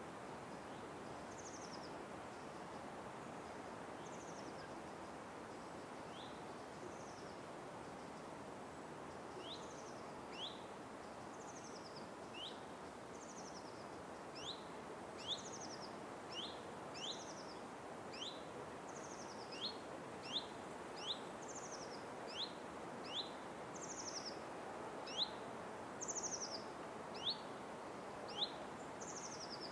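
Forest ambience: a steady background hiss with birds giving short, high chirping calls, a quick rising note paired with a descending one, sparse at first and then coming about once a second and louder in the second half.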